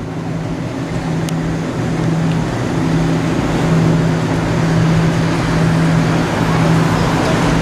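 Motor vehicle road noise: a loud, steady rushing with a low drone under it, growing slightly louder over the first few seconds.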